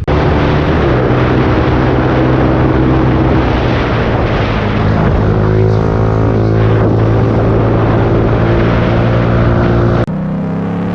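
Motorcycle engine running steadily with noise over it, its pitch shifting a little about halfway through. About ten seconds in the sound cuts abruptly to a quieter engine whose pitch rises.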